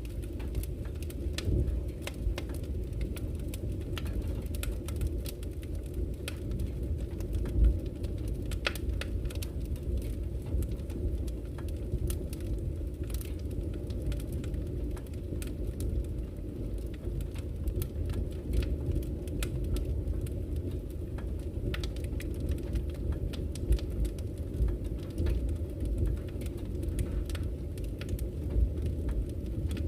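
Campfire crackling, with scattered sharp pops and snaps, over a steady low rush of flowing river water.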